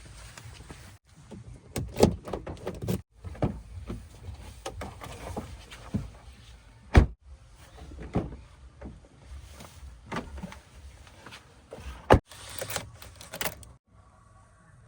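Backhoe loader at work: its diesel engine runs under irregular knocks and clunks, with loud single impacts about 2, 7 and 12 seconds in.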